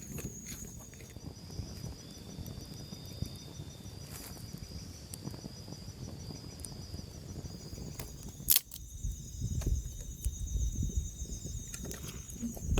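Insects trilling steadily in a high pitch, with a single sharp snap about eight and a half seconds in, followed by low rustling and handling thumps.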